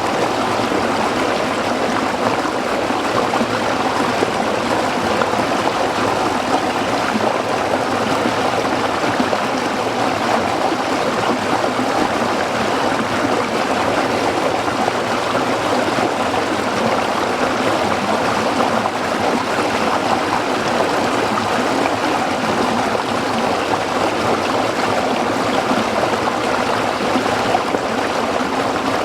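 A small rocky stream flowing steadily over stones, an even splashing rush of water with no pauses.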